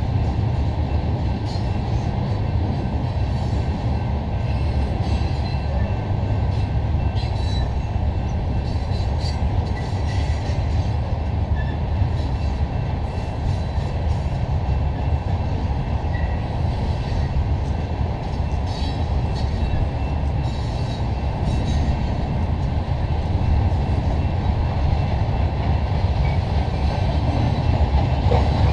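Ballast hopper cars of a freight train rolling past: a steady low rumble of steel wheels on the rails, with brief clanks and squeaks scattered throughout.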